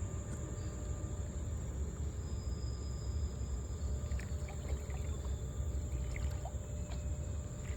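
Water moving around a kayak on a river: a steady low rumble with faint scattered drips and small knocks.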